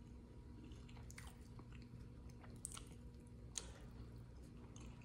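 A person chewing a mouthful of chicken sandwich: faint, soft wet mouth clicks and smacks, with two sharper ones a little past the middle.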